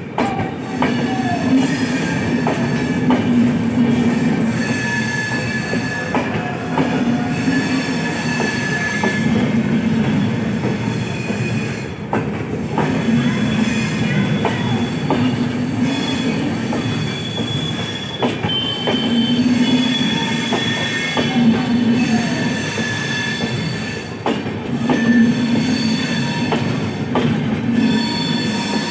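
Train running along the track, loud and steady throughout, with high wheel-squeal tones that come and go and scattered clicks of wheels over rail joints.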